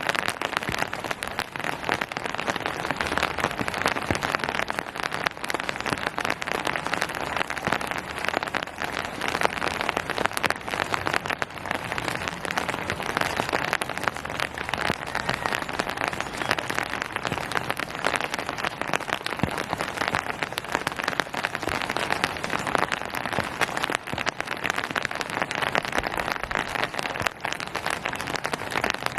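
Steady rain falling on surfaces: a dense, even patter of many drops.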